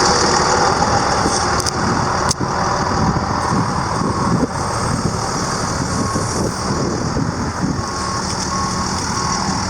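International DT466 turbo diesel truck engine running steadily, with a high hiss over its rumble. A short beep starts repeating at an even pace in the second half, like a warning alarm.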